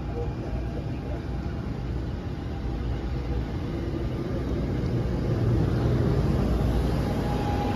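NJ Transit Arrow III electric multiple-unit cars rolling past as the train pulls out: a steady rumble of wheels on rail that grows louder about five seconds in.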